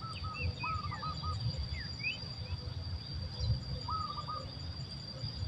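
Small birds chirping and calling: quick short chirps and a few brief runs of repeated notes, over a steady high-pitched insect drone and a low rumble.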